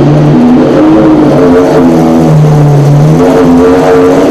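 Maserati GranTurismo MC race car's V8 engine running loud at high revs, its pitch stepping up and down several times.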